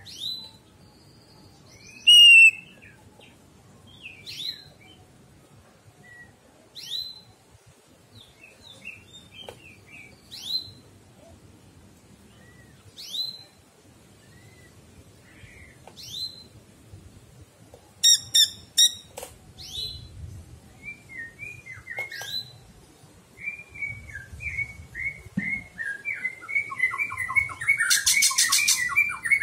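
Caged cucak ijo (green leafbird) calling: single sharp, sweeping whistled notes every two to three seconds, then, from about two-thirds of the way in, a quicker run of chattering, warbling notes that grows louder and denser near the end.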